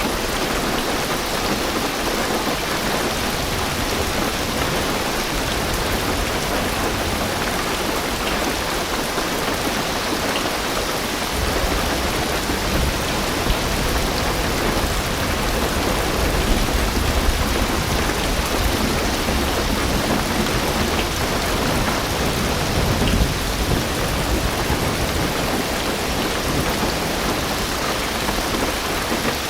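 Heavy rain drumming steadily on a car roof and windows, heard from inside the car. About a third of the way in, a long, low rumble of thunder rolls under the rain for over ten seconds.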